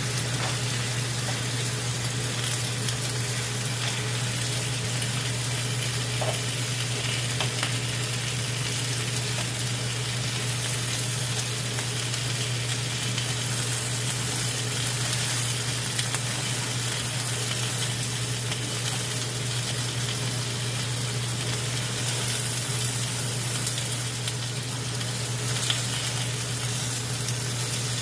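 Sliced duck meat and potato slices sizzling in a frying pan, stirred and turned with a kitchen utensil. A steady low hum runs underneath.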